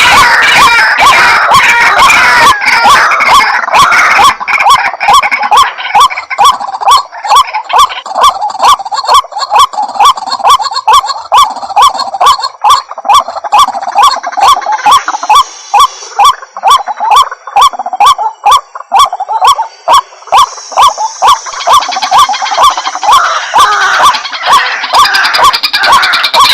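White-breasted waterhens calling: a loud, fast run of short repeated croaks, about two to three a second. Several birds overlap in a thick chorus at the start and again near the end, thinning to a steadier series in the middle.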